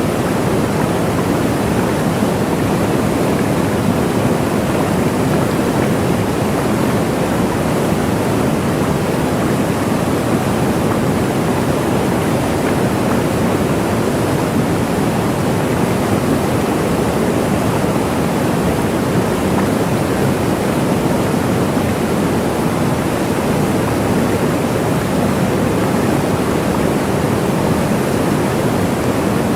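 Waterfall: a steady, even rush of falling water, strongest in the low and middle range.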